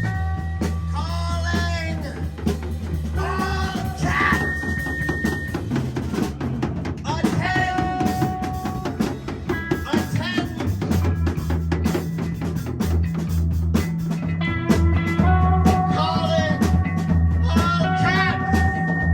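Live rock band playing an instrumental passage: drum kit, a held bass line and bending, wavering guitar notes.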